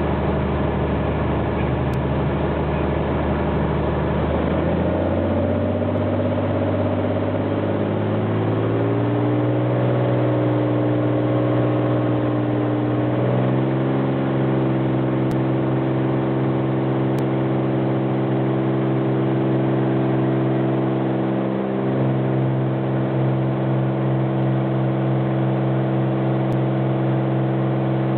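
Light airplane's piston engine and propeller running, rising in pitch in three steps over the first half as the engine speeds up, then holding a steady drone.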